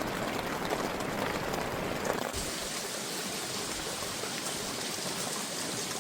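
Steady rain falling, a constant even hiss; its tone shifts, brighter and thinner, a little over two seconds in.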